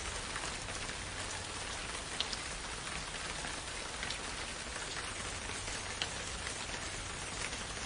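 Steady rain falling in a forest, a dense even hiss with individual drops ticking on leaves and surfaces, a couple of slightly louder drops about two and six seconds in.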